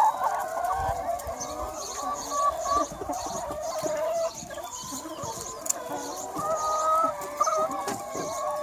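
A large flock of free-range hens clucking and calling over one another in a continuous, layered chorus, with short high chirps repeating above it.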